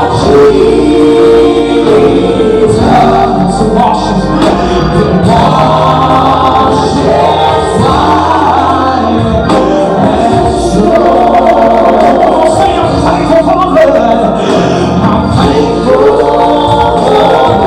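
Gospel choir singing with a full band behind it, loud and continuous.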